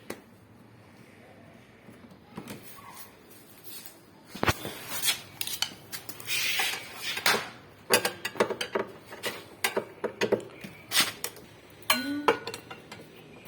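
Metal tools and washing-machine clutch parts being handled, clinking and clanking in quick irregular knocks that start a few seconds in.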